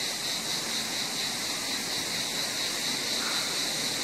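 Steady outdoor ambience: a continuous high-pitched insect drone over an even hiss, with no changes or distinct events.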